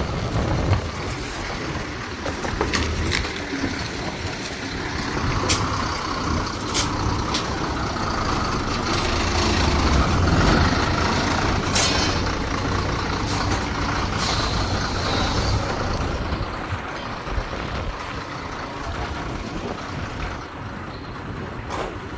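Heavy diesel truck engine running as the truck pulls in and manoeuvres, getting louder in the middle, with several short sharp air-brake hisses.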